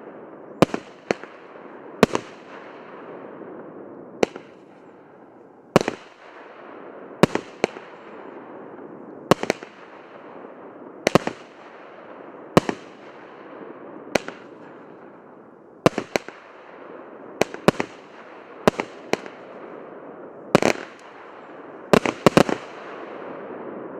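Orion 'Forward' OTS 5090 consumer fireworks battery firing shot after shot: sharp bangs about every second or second and a half, some in quick pairs, over a steady rushing noise. Three bangs come close together near the end.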